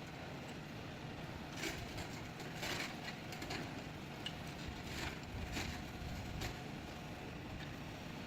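Heavy machinery working: a low steady engine rumble with a scattering of short metallic clicks, knocks and creaks.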